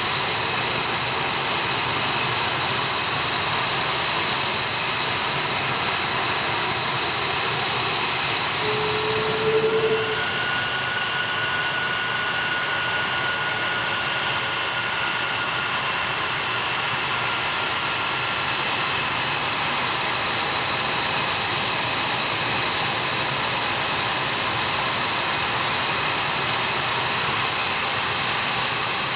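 F-22 Raptor's twin Pratt & Whitney F119 jet engines running steadily on the ground with a high whine. About ten seconds in, a brief louder, lower tone sounds and the whine shifts slightly in pitch.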